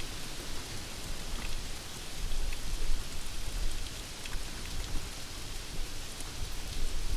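Steady heavy rain falling, with scattered drops ticking, and a low thunder rumble swelling about two to four seconds in.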